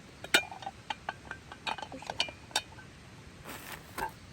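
Metal clinks and knocks as a hot sandwich maker is handled and set down: one sharp clink about a third of a second in, the loudest, then a run of lighter taps, a short rustle and another knock near the end.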